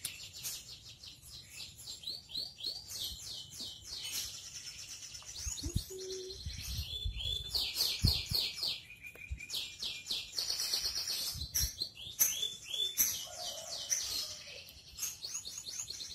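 Small birds chirping in quick, repeated runs of short trilled notes, with a few soft low thuds in the middle.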